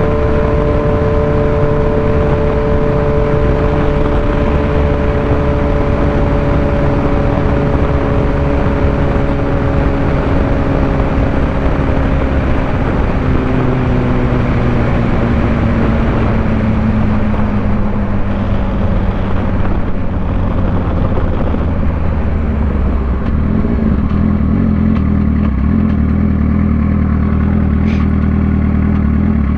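Suzuki GSX-R600 inline-four engine and wind noise heard from the rider's position. The engine's pitch falls slowly for the first twenty seconds or so as the bike slows, then settles into a steady low note for the last several seconds.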